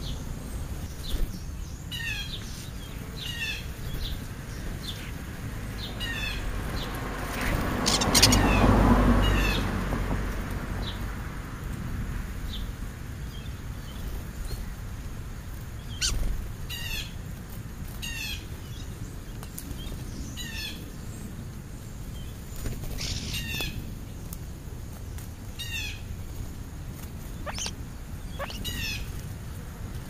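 Small birds, European starlings among them, chirping over and over in short falling calls. A louder rushing swell rises and fades about eight seconds in, and a couple of sharp clicks stand out.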